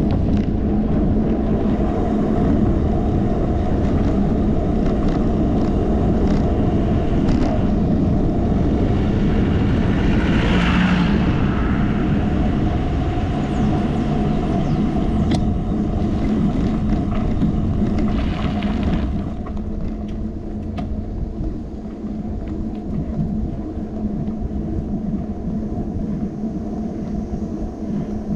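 Steady low rumble of wind and road noise from a moving bicycle, picked up by a handlebar-mounted GoPro. A brighter hiss swells and fades around ten seconds in, and the noise gets quieter about two-thirds of the way through.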